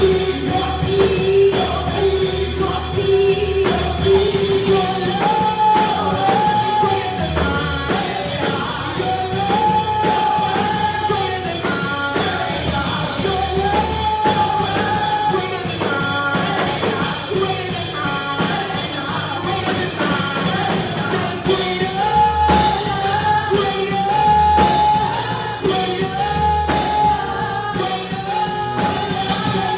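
Live gospel praise and worship music: singing over a full band with drums.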